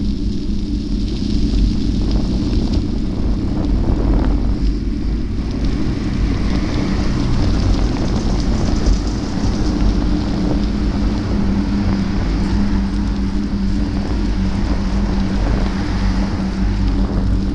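Vehicle running at a steady speed: a continuous low rumble with a steady hum.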